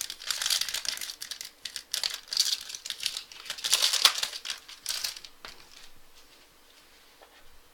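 Foil trading-card pack wrapper being torn open and crinkled, in bursts of crackling for about five seconds, then fading to quiet.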